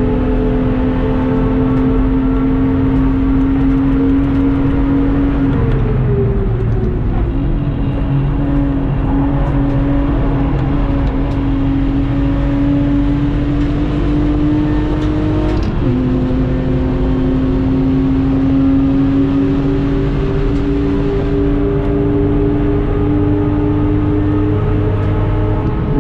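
Lexus IS200's stock 1G-FE 2.0-litre straight-six running hard under throttle, heard from inside the cabin. Its pitch climbs slowly in gear, sags for a couple of seconds about six seconds in, then falls suddenly at a gear change just after the middle and again at the very end.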